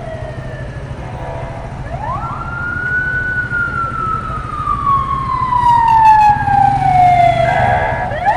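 A siren wailing in long, slow cycles: its pitch jumps up quickly, then sinks slowly for about five seconds before jumping up again, twice, over a steady low rumble.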